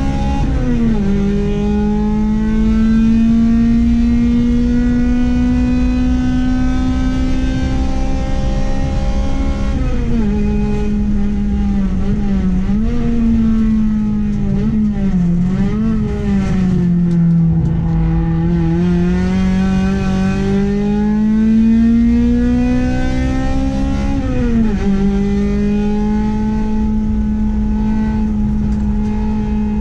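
Honda Accord's H22A 2.2-litre four-cylinder engine running hard under load on track. Its pitch climbs slowly and drops sharply at gear changes about a second in and about five seconds before the end. Around the middle the pitch falls, wavers up and down and dips, then climbs again.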